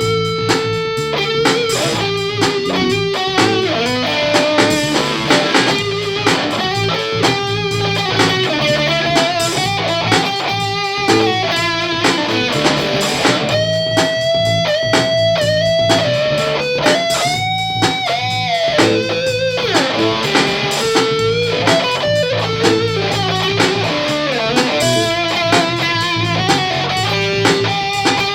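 Jazzmaster electric guitar played through a range booster, a Mooer Cruncher distortion pedal and a Sovtek 50 amp into an Egnater cabinet: distorted lead lines of single notes with string bends and vibrato, the bends most marked about halfway through.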